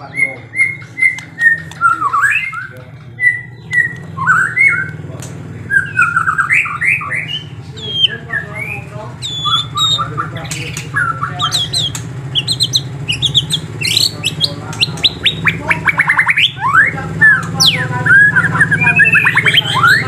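Songbirds chirping and calling together in quick whistled notes that rise and fall, with a run of rapid sweeping chirps in the second half, over a steady low hum.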